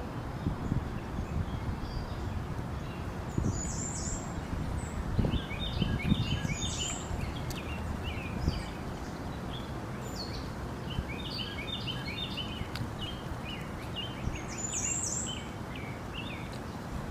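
Small birds chirping in two quick twittering bouts, over a steady low rumble of outdoor background noise, with a few soft knocks in the first half.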